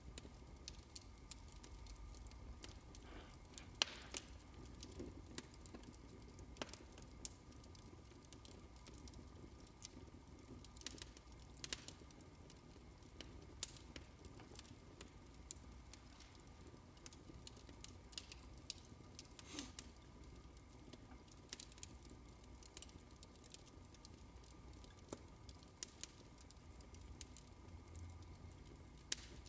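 Fireplace crackling: faint, irregular pops and snaps over a low steady rumble.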